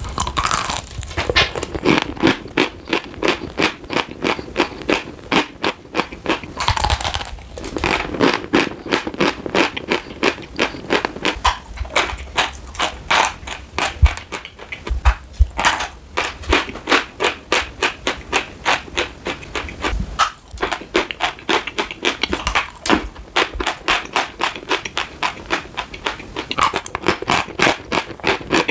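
Chalk being bitten and chewed: a steady run of dry crunches, about three a second.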